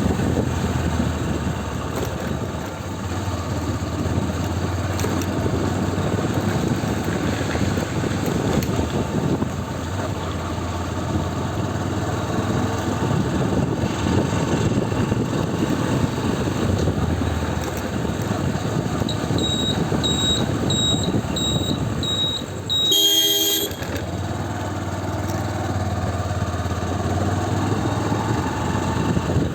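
Riding a motorcycle: steady engine and wind noise, with a run of short high beeps about 19 seconds in, then a brief horn honk about 23 seconds in. Near the end a rising engine note is heard.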